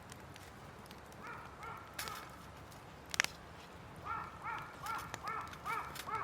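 A bird giving short harsh calls, a couple about a second and a half in, then a quick run of about seven near the end, with two sharp cracks in between.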